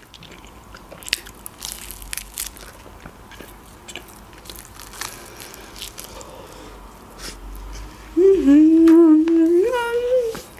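Biting and chewing a slice of pizza close to the microphone: scattered soft crunches and mouth clicks. About eight seconds in comes a drawn-out closed-mouth 'mmm' hum that steps up in pitch near its end, the loudest sound.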